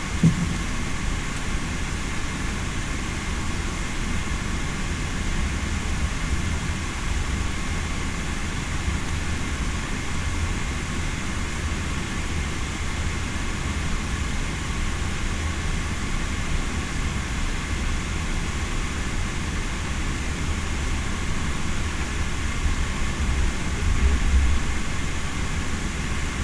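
Steady low rumble and hiss of an Airbus A380-800 heard from inside the cabin, with a faint steady whine above it. There is a short knock just after the start, and the rumble swells briefly near the end.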